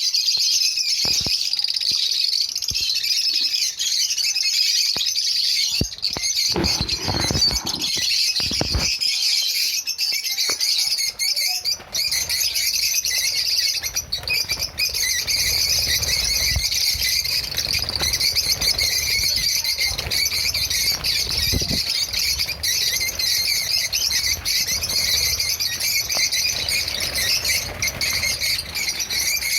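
A flock of kept small birds chirping and chattering all at once in a dense, continuous high-pitched twitter, with a few low knocks about seven seconds in.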